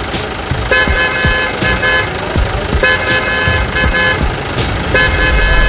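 Vehicle horn sounding three times, each blast a second or so long, over a steady low rumble.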